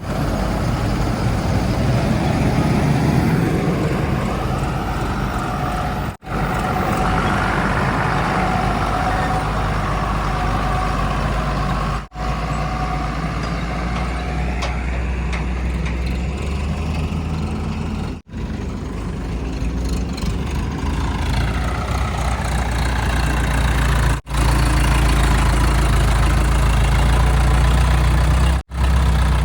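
Heavy diesel engines running at an earthmoving site, in several short clips joined with abrupt cuts. Through the middle the engine pitch rises and falls as it works, and near the end a steady deep drone dominates.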